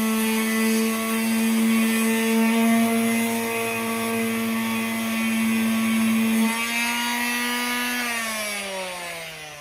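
Electric power sander's motor running at a steady high speed with a strong hum, then switched off about eight seconds in and winding down, its pitch falling steadily.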